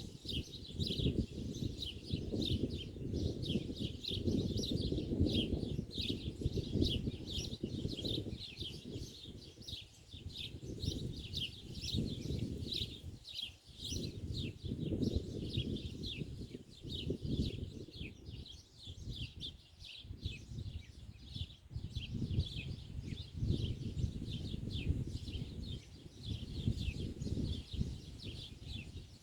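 Small birds chirping continuously in a rapid stream of short, quick notes, over a low, fluctuating rumble.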